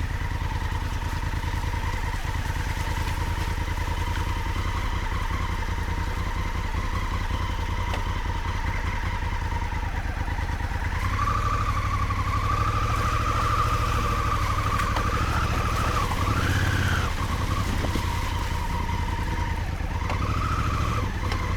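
Big adventure motorcycle's engine running at low revs. About halfway through the revs rise and hold, and near the end it gives two short blips of throttle.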